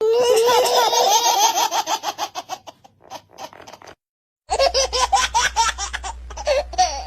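High-pitched laughter in two bouts, the first fading out about three seconds in and the second starting again after a short silence. A low hum runs under the second bout.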